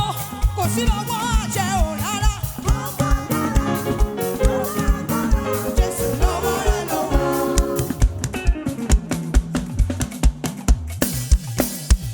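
Live gospel praise band music with a steady drum beat. A singer's voice glides and wavers over it for most of the first eight seconds, after which the band and drums carry on mostly without voice.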